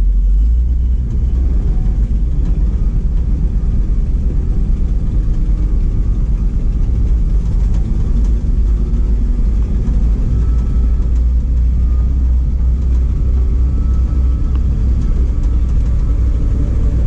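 Ford F700 truck's 370 V8 gasoline engine with a four-barrel carburetor running steadily, a heavy, low rumble.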